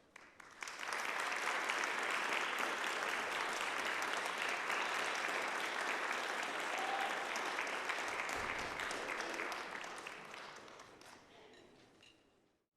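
Audience applauding after a percussion ensemble piece ends: clapping starts within a second, holds steady, then dies away over the last couple of seconds.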